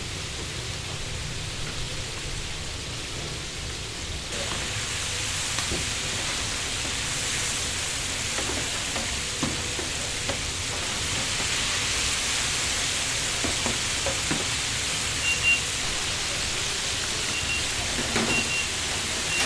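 Chicken pieces deep-frying in hot oil: a steady sizzle that gets louder about four seconds in, with a few light knocks. A few short high beeps come near the end.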